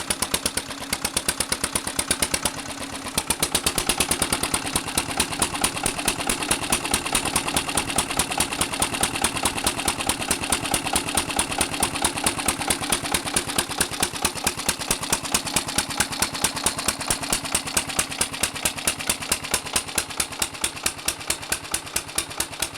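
4 HP Southern Cross EUC single-cylinder air-cooled diesel stationary engine running steadily, each firing beat clearly separate and evenly spaced. Its loudness dips briefly about three seconds in.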